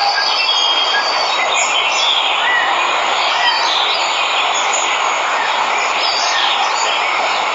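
Steady rush of a waterfall, with many short bird chirps and whistles over it.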